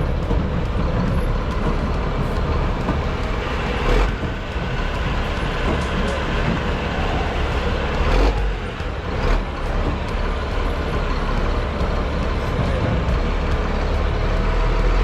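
A vehicle on the move: steady engine and road rumble, with two brief thumps, about four and eight seconds in.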